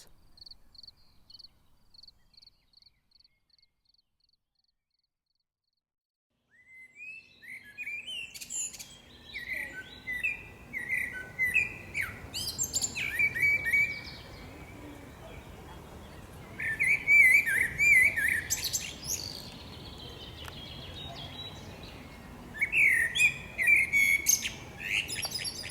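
A cricket's even chirping fades away over the first few seconds, leaving near silence. From about seven seconds in, a common blackbird sings several separate phrases, melodious notes ending in high twitters, over a faint background hiss.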